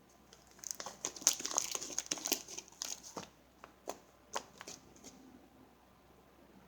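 Sticky fluffy slime being squeezed and kneaded by hand, crackling and clicking. The clicks come thick for the first few seconds, then thin out to single pops.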